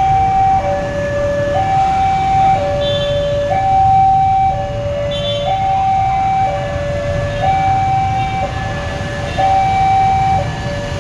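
Railway level-crossing warning alarm sounding a two-tone hi-lo signal, each tone held about a second, over a steady low rumble.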